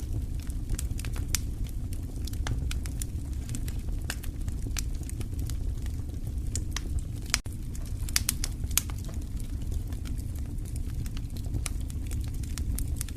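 Wood fire crackling in a fireplace: irregular sharp pops and snaps over a steady low rumble, with a momentary dropout about seven seconds in.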